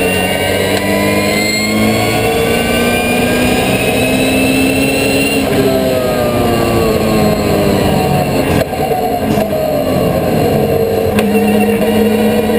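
Turbocharged Subaru Impreza time attack car's engine running hard at speed. The pitch climbs slowly for about five seconds, falls for about three, dips briefly, then picks up again and holds steady.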